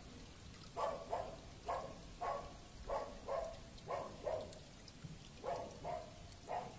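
An animal calling in short, pitched barks, often in quick pairs, about a dozen through the stretch, over the faint patter of rain.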